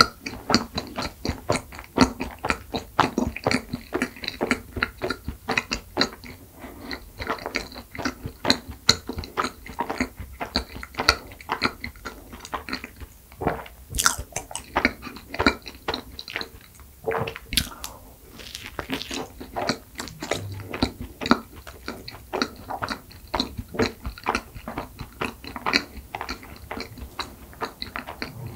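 Close-miked biting and chewing of a soft cream-filled bun: dense, quick mouth clicks and smacks throughout, with a couple of sharper, louder clicks about fourteen and seventeen seconds in.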